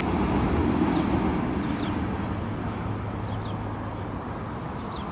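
Rolling rumble of a BNSF manifest freight train's last cars moving away, fading steadily.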